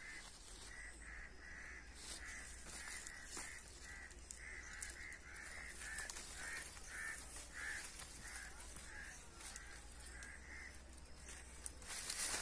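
A bird calling over and over in short calls, about two or three a second, that stop a couple of seconds before the end. Leaves rustle as hands move through the guava branches, with a louder rustle near the end.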